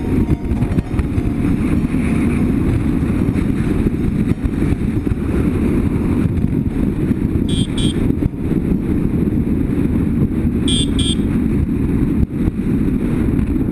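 BMW F800GS motorcycle riding at steady speed, its parallel-twin engine running under a heavy rush of wind noise. A brief double beep sounds twice, about three seconds apart.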